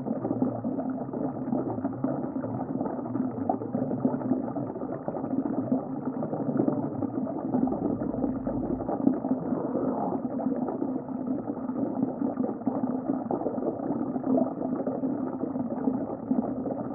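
Muffled underwater ambience: a steady low rumble with dense bubbling, dull and without any high sounds.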